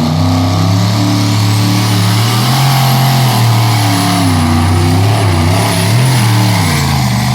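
Modified pulling tractor's twin big-block Chevrolet V8 engines running hard under load. The engine pitch wavers and dips several times in the middle of the run and falls away near the end: a pull where something went wrong.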